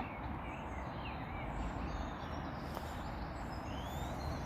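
Small birds chirping in short rising and falling calls, a few times, over a steady low rumble.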